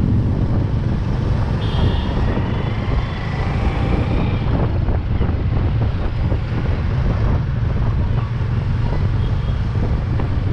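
Steady rumble of a vehicle travelling along a rough road, with wind buffeting the microphone.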